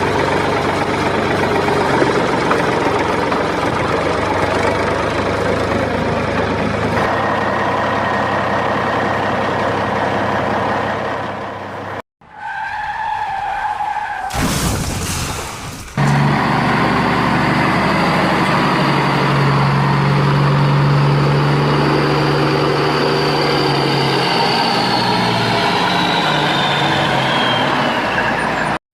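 Vehicle engine running steadily, in several segments joined by abrupt cuts, with a high whine that falls in pitch near the end.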